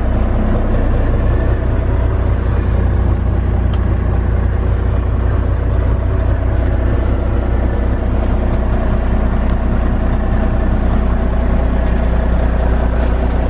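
Volvo D13 inline-six diesel idling steadily, heard inside the truck's cab as a deep low hum, with the air-conditioning blower hissing over it. A couple of faint clicks.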